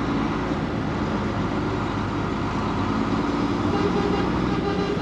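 Heavy lorry engine running steadily under way, a continuous low drone heard from inside the cab in a moving truck convoy.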